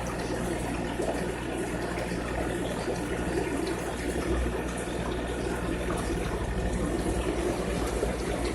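Aquarium water running and splashing steadily, with a steady low hum underneath.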